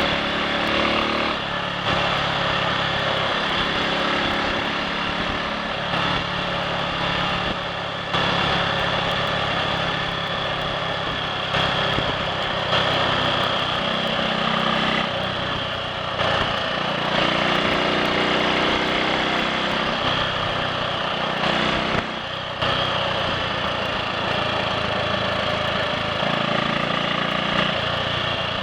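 Triumph Sports Cub's single-cylinder four-stroke engine running on the move, its note rising and falling several times with brief dips near the 8- and 22-second marks, over a steady rushing noise. It runs without misfiring or cutting out after the fuel tank was cleaned of rust.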